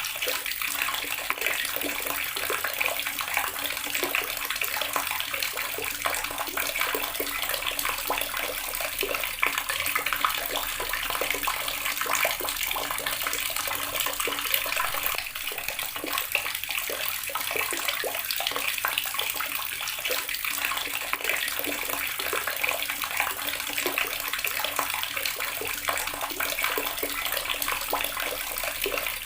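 Water running steadily from a tap and splashing into a basin or tub, an even, continuous splashing.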